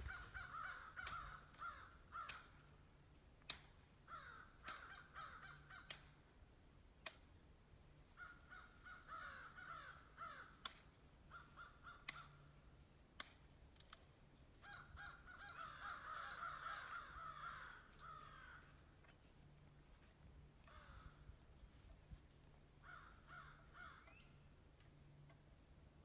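Birds calling in repeated bursts of a second or a few seconds each, with scattered sharp clicks between them.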